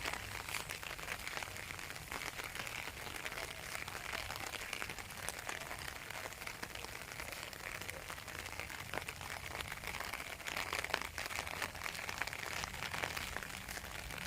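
Steady rain falling, a constant hiss dotted with many small ticks of drops striking surfaces.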